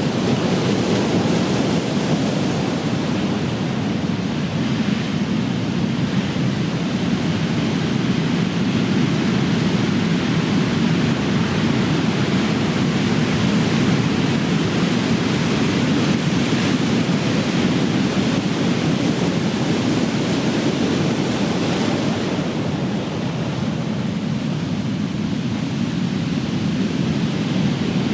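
Big ocean waves breaking and crashing on the shore in a continuous rushing roar of surf, easing slightly near the end.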